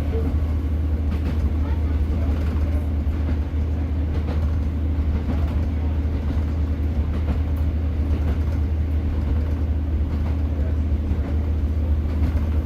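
Class 150 Sprinter diesel multiple unit running along the line, heard from on board as a steady low drone of its underfloor diesel engine mixed with wheel-on-rail rumble.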